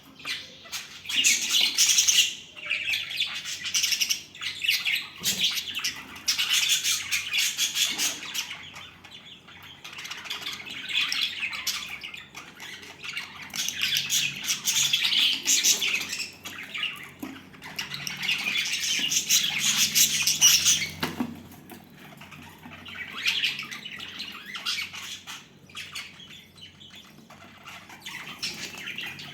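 Budgerigars chattering and squawking: a dense, rapid, high-pitched warble that swells into loud bouts and eases in between.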